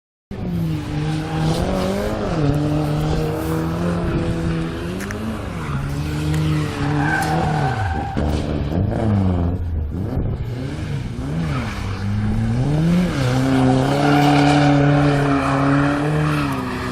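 Car engine revved hard and held at high revs during a burnout, the pitch dipping and climbing again several times, with spinning tyres squealing. The revs sag lowest around the middle, then climb and hold high near the end.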